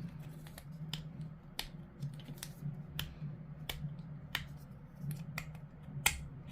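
Irregular sharp clicks and taps of hard plastic model-kit parts being handled and pressed together in a dry fit, the loudest click a little before the end, over a low steady hum.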